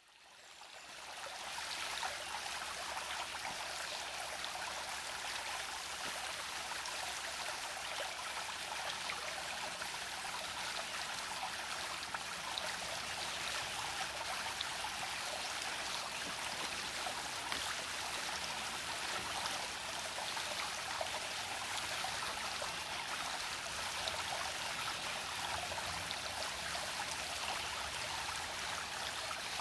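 A small brook babbling: a steady rush of running water with fine trickling splashes. It fades in over the first couple of seconds.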